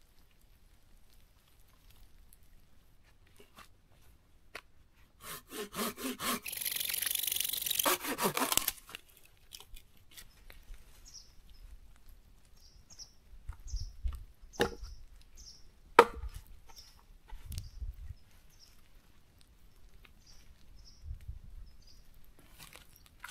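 Firewood being prepared for a campfire: a quick run of rasping strokes about five seconds in that turns into loud continuous sawing for a few seconds, then two sharp cracks of wood near the middle.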